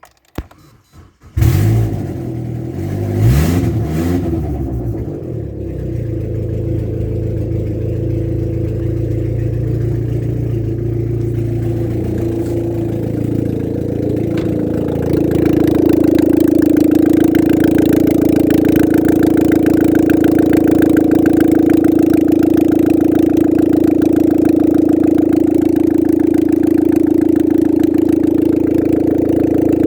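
Opel Zafira A's 1.6-litre Z16XE four-cylinder petrol engine starting about a second and a half in and briefly revving, then running steadily; about halfway through it runs louder with a steadier drone.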